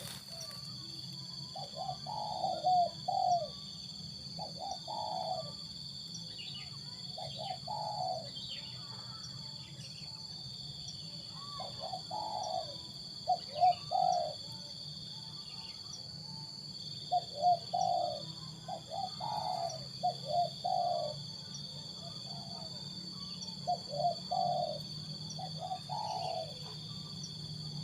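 Spotted dove cooing: short phrases of a few low coo notes, repeated every couple of seconds.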